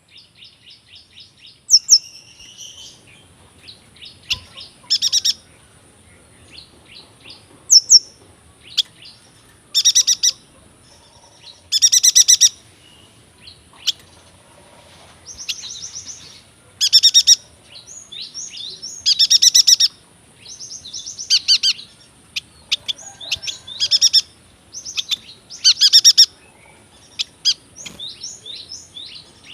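Yuhina singing in long rolling song: rapid, pulsing trills about a second long, repeated every two to three seconds, with short chirps and quick notes between them.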